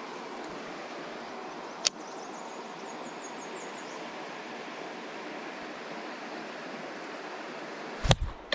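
Steady rush of river water, with a sharp click about two seconds in, a few faint high chirps just after, and a loud thump near the end.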